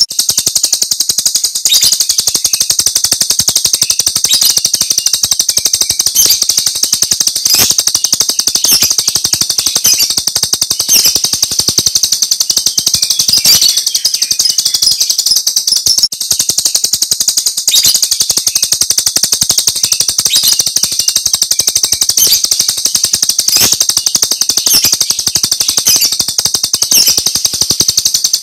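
Jalak Rio starling singing its 'tembakan' masteran song: a continuous, high-pitched, rapid rattling trill of fast clicking notes, with sharper accented notes about once a second.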